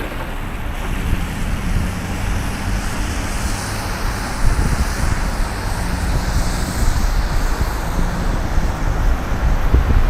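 City street traffic: vehicle engines running and tyres on the road, steady throughout, with wind rumbling on the microphone.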